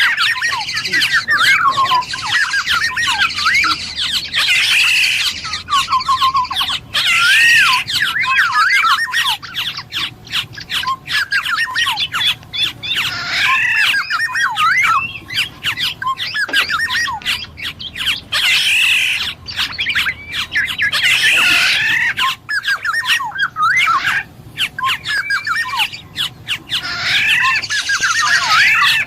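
Black-naped oriole (kepodang emas) calling almost continuously: rapid warbled and whistled phrases mixed with harsher squawking notes, with many short clicks throughout.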